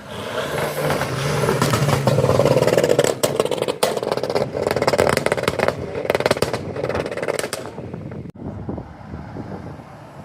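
A car's engine and exhaust passing loudly, building over the first couple of seconds, with rapid crackling through the loudest part, then dying away about eight seconds in.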